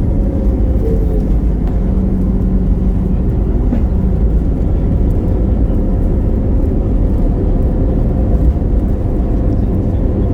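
Steady, loud rumble inside the cabin of an Airbus A321neo: engine and airflow noise with a faint steady hum, and a brief higher hum a couple of seconds in.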